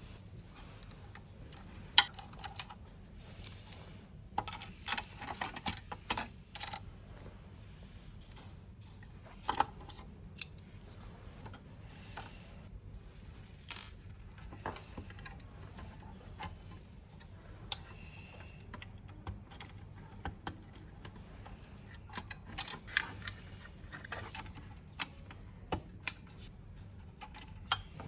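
Irregular small clicks and taps of a blood gas analyzer's parts being handled and taken apart, in clusters with gaps between, over a steady low hum.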